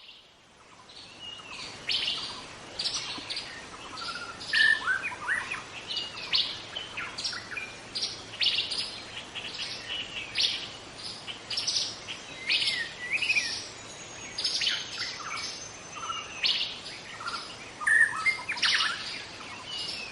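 A bird calling and singing: a long, irregular series of short, sharp notes and quick up-and-down slides, several a second, with brief gaps between phrases.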